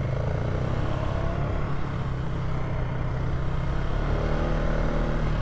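Polaris ATV engine running steadily as the quad rides along a dirt trail, a low, even hum.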